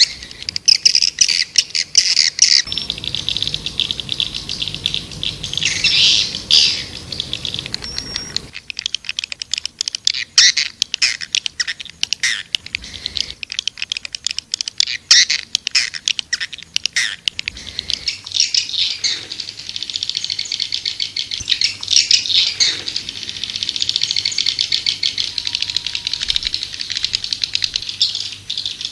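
Swiftlets twittering in rapid, dense high chirps and clicking trills: a swiftlet calling sound of the kind played to lure swiftlets into a nesting house.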